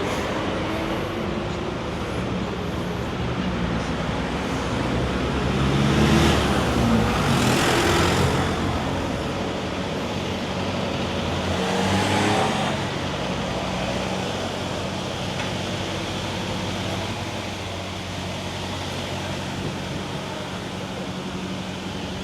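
Road traffic: a steady hum of car engines and tyres, with vehicles passing and swelling louder about six to eight seconds in and again around twelve seconds.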